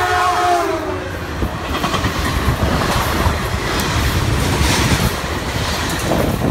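Caltrain locomotive horn sounding a chord that drops in pitch and cuts off about a second in, followed by the loud rumble and clatter of the passenger train passing.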